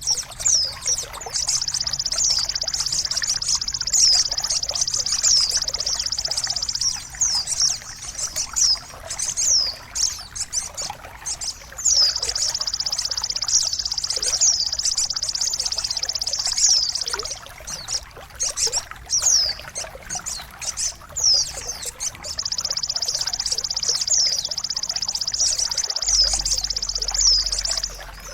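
Songbird singing: three long, high, rapid trills of about five seconds each, with quick down-slurred chirps in the gaps between them.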